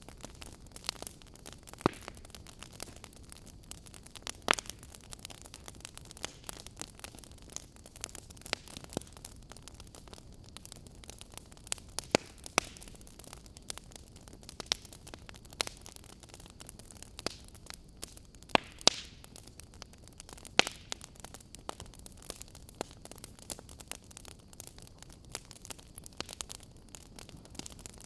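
Wood fire crackling: irregular sharp pops and snaps over a steady low hiss, with a few louder pops scattered through.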